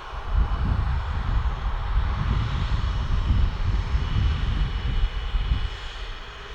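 Business jet's turbofan engines, a heavy fluttering rumble under a rushing hiss and a thin high whine, easing off near the end as the jet moves away.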